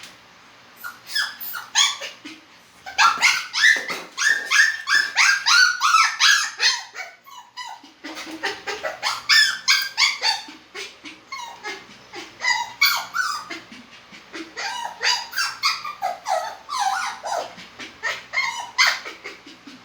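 A poodle crying in rapid runs of short, high-pitched yelps and whines, each cry dropping in pitch, with a brief lull about seven seconds in.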